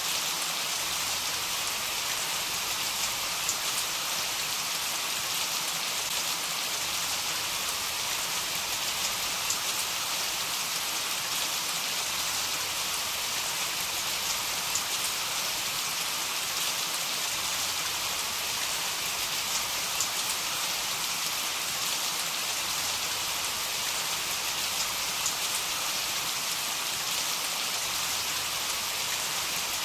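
Heavy rain falling steadily: a dense, even hiss with scattered sharp drop ticks and no thunder.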